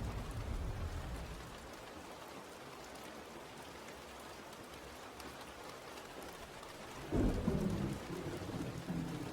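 Steady rain falling, with thunder: a low rumble dies away in the first second or two, and a loud thunderclap breaks in about seven seconds in and rumbles on.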